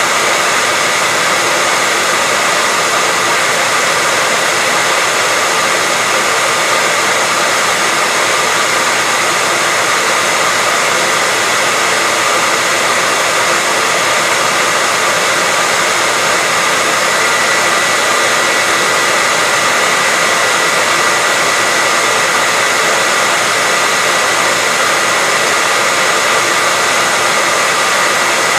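Hair dryer blowing steadily, an even rushing whoosh of air with a faint steady whine on top.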